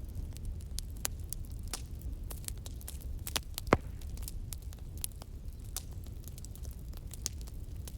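Wood fire crackling: irregular small pops and snaps over a steady low rumble, with one sharper, louder pop about halfway through.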